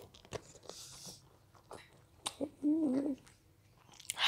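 Close-miked chewing of a mouthful of cheesy macaroni pasta: soft wet clicks and smacks of the mouth. A short hum from the eater comes about two and a half seconds in, and a breathy exhale near the end.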